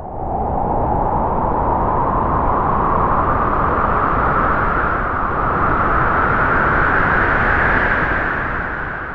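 Strong wind howling through trees: a steady rush with a whistling note on top that rises a little as a gust builds and sinks as it eases near the end.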